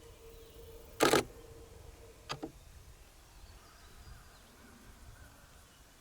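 Nikon D500 DSLR shutter firing right beside the microphone: a loud, fast cluster of shutter releases about a second in, then two quick clicks just over a second later. A faint steady hum stops just after the clicks.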